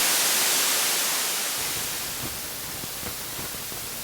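Steady, hissing static noise, loudest at the start and slowly fading.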